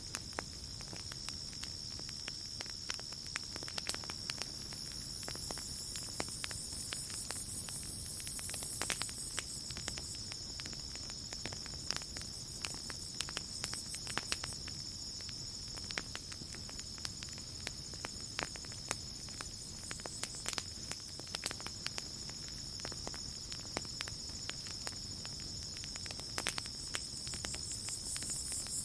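Campfire crackling with irregular sharp pops, over a steady high chirring of crickets.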